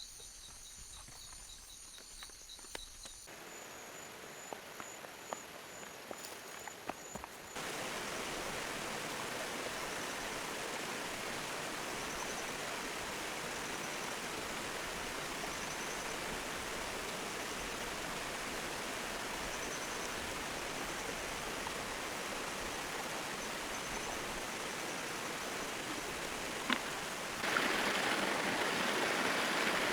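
Insects chirping in the first few seconds. Then a steady rush of flowing water takes over, stepping up in loudness about eight seconds in and again near the end. A few light clicks come before the rush takes over.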